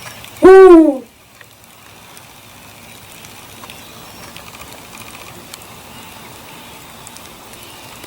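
A bird gives a single loud, short call just after the start, rising briefly and then falling in pitch. Faint steady background hiss follows.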